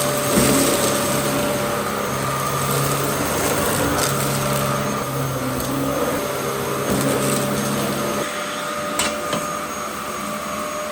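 Dyson DC07 Allergy upright vacuum cleaner running steadily, its motor giving a constant high whine over a rushing airflow, with a lower hum that fades out for a couple of seconds near the end and a few sharp clicks.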